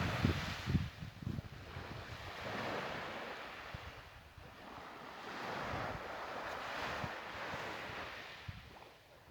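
Black Sea waves washing in, the rush of water swelling and fading several times. Wind buffets the microphone during the first second.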